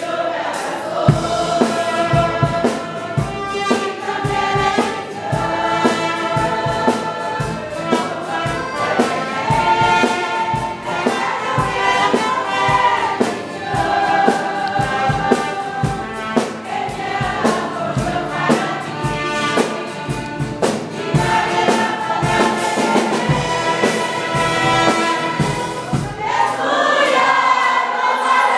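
Church worship music: a group of voices singing together over a band, with a steady drum beat.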